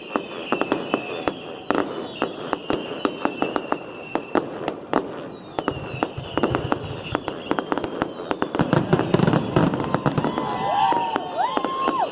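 Aerial fireworks going off in rapid succession: many sharp crackles and bangs, with falling whistles running through them. The bursts come thickest about three-quarters of the way in, and a few pitched whistling tones follow near the end.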